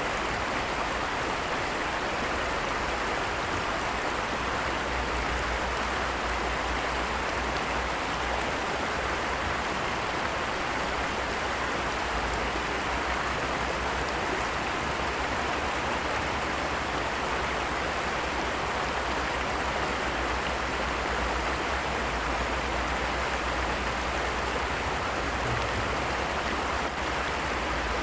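Steady, unbroken rush of water, a constant hiss that does not change.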